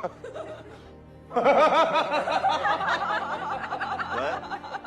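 Background music, with a burst of laughter starting about a second in and tailing off near the end.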